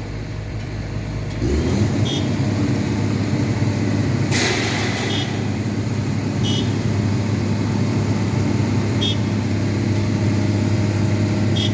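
A boom truck's engine running steadily, stepping up louder about a second and a half in. A brief hiss comes a little past four seconds in, and a few short high chirps sound at irregular intervals.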